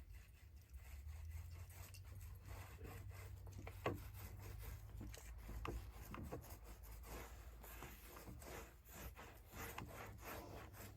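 Faint, irregular rubbing and scraping from hand work with fiberglass resin, over a steady low hum, with one sharper click about four seconds in.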